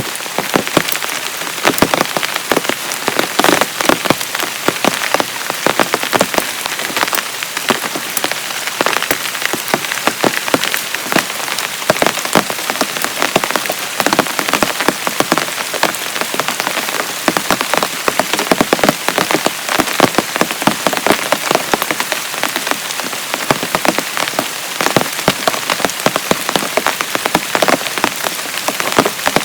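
Heavy rain falling steadily, with countless sharp drop strikes on a surface close by.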